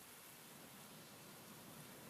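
Faint, steady hiss of rain and wind, even throughout, with no distinct drops or gusts standing out.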